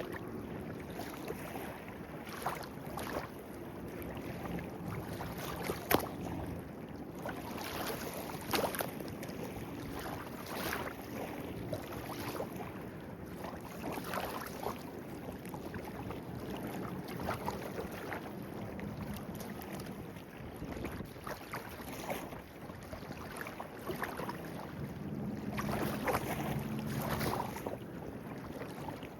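Clear-water stream babbling steadily, with frequent small splashes and gurgles.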